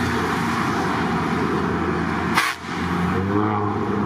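Heavy truck diesel engines running steadily, with a short sharp burst of noise about two and a half seconds in.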